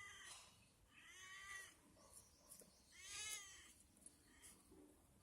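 Domestic cat meowing faintly, three calls: one trailing off at the start, one about a second in and another about three seconds in, each rising and falling in pitch.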